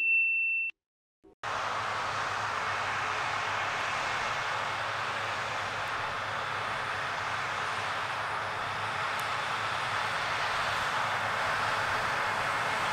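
Harvest machinery running steadily at work: an even rushing noise with a faint low hum that cuts in suddenly about a second and a half in, after a short silence.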